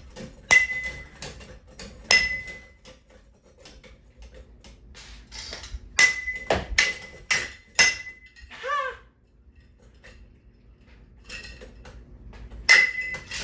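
Sharp metallic strikes on a ceiling fan being smashed apart, each ringing briefly. A couple of hits come early, a quick run of four comes about six to eight seconds in, and one more comes near the end.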